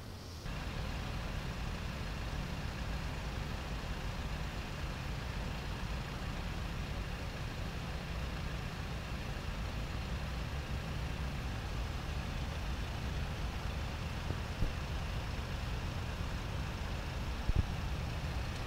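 A motor vehicle's engine idling steadily, with two brief knocks in the last few seconds.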